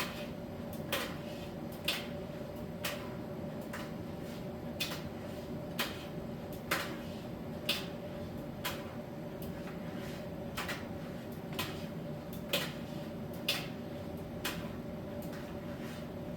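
Miele T1 heat-pump tumble dryer running in its drying phase: a steady hum with a held tone, and a light click about once a second as the load tumbles in the drum.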